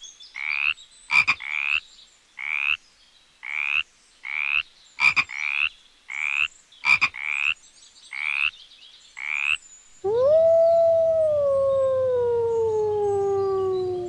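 A frog calling in repeated short croaks, with three sharp clicks among them. About ten seconds in, a canine gives one long howl that rises quickly and then slowly falls in pitch.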